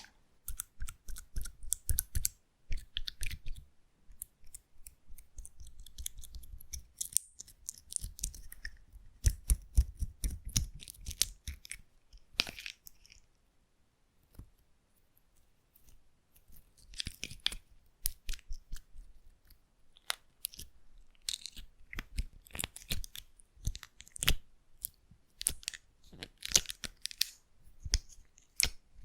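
Slime being squished and pressed close to the microphone: clusters of sticky clicks and crackles, with a pause of a few seconds about halfway through.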